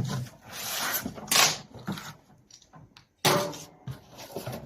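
Cardboard box and packing being handled and opened: rustling and scraping noises, then a sharper knock about three seconds in.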